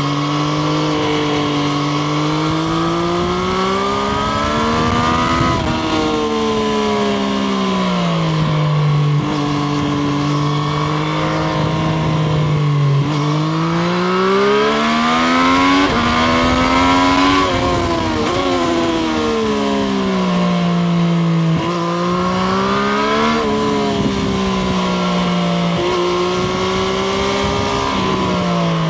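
Triumph Street Triple RS's 765 cc inline three-cylinder engine under way, revving up and easing off in long sweeps, with sudden pitch changes at gear changes about 5 s in, around 17 s and around 23 s, over a steady rush of wind and road noise.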